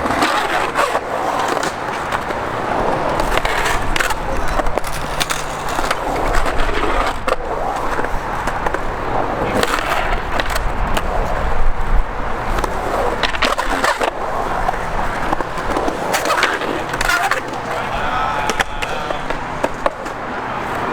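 Skateboard wheels rolling on concrete with a continuous rumble, broken by repeated sharp clacks and knocks of the board hitting the surface and landing.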